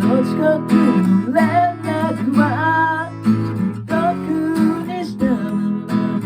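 Acoustic guitar strummed as accompaniment, with a voice singing a melody over it in two phrases.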